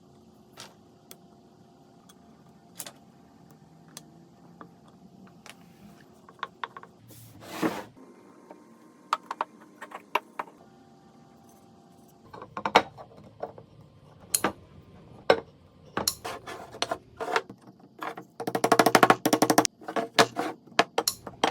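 Small workshop handling sounds: scattered sharp clicks and knocks of tools and wooden parts being picked up and set down, growing busier in the second half. A short whooshing swell comes about seven seconds in, and a fast, even rattle lasting about a second comes near the end.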